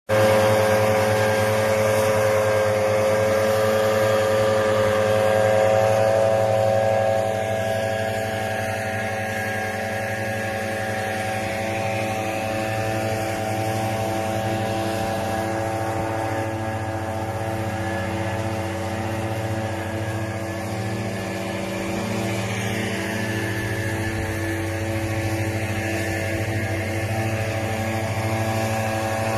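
Steady motor or engine hum at a fixed pitch, dropping a little in level about seven seconds in and then running on evenly.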